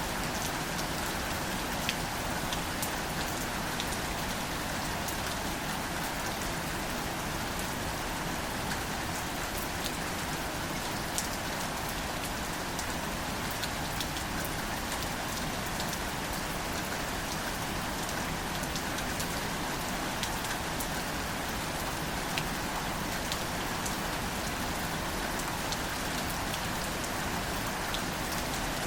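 Gentle, steady rain falling on wildflowers and leaves, with scattered individual drops ticking sharply over the even hiss.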